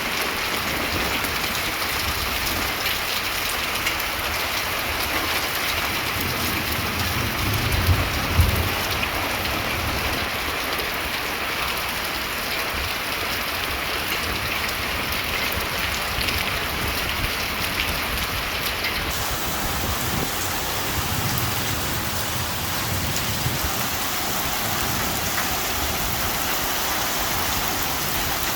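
Heavy monsoon rain falling steadily, with a brief low rumble about eight seconds in.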